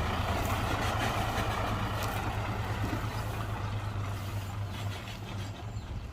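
Heavy diesel engine of earthmoving machinery running steadily with a low hum, easing off slightly after about five seconds.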